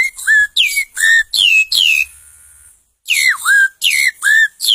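A boy whistling an imitation of a rufous-bellied thrush (sabiá-laranjeira) song. It comes as a run of quick, swooping whistled notes in two phrases, with a short pause between them.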